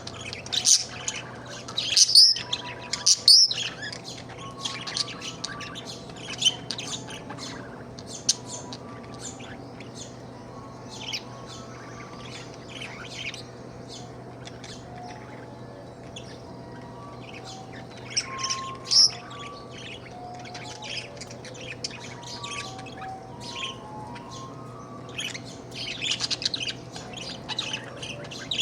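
Budgerigar chirping and chattering continuously, the warbling of a happy budgie, with louder sharp calls about two and three seconds in, again around nineteen seconds, and near the end. A steady low hum runs underneath.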